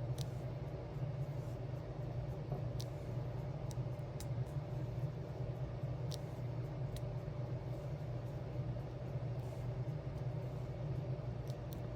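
Small, light ticks at irregular intervals as resin diamond-painting gems are picked up and pressed onto a sticker sheet. A steady low hum runs underneath.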